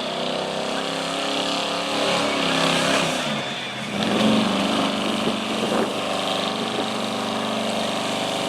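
A vehicle engine running steadily at low revs, a little louder about four seconds in, with voices in the background.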